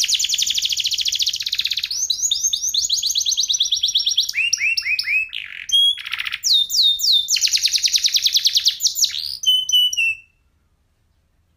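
Domestic canary singing: fast rolling trills of rapidly repeated notes alternating with phrases of down-slurred whistled notes. The song stops abruptly about ten seconds in.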